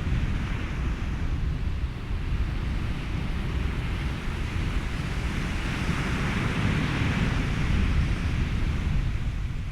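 Ocean surf and wind over steady white noise: a constant low rumble, with a wave swelling and washing through past the middle before easing off.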